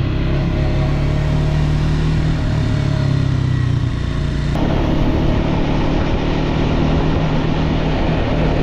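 Motorcycle engine running steadily on the move, with a low, even hum. About halfway through, a louder rushing noise of wind and road joins it.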